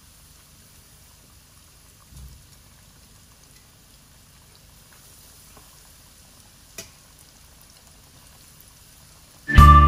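Chicken wings frying in hot oil in a wok: a faint, steady sizzle, with a short click about seven seconds in. Loud music starts just before the end.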